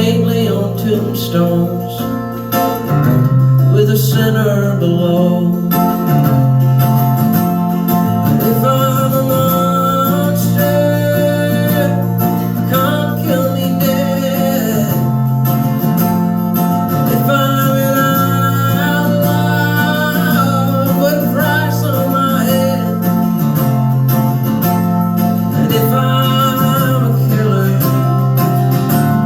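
Acoustic country song: an acoustic guitar plays a repeating chord pattern, with a wordless melody line rising and falling above it.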